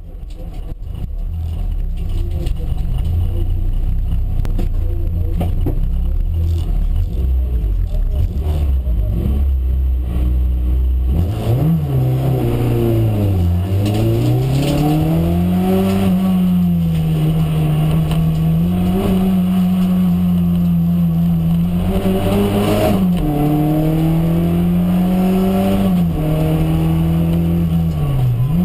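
Volkswagen Golf Mk1 race car's four-cylinder engine heard from inside the cabin. It runs with a steady low rumble for about ten seconds. Then it revs hard as the car sets off, its pitch climbing and dropping again and again as it is driven through the slalom.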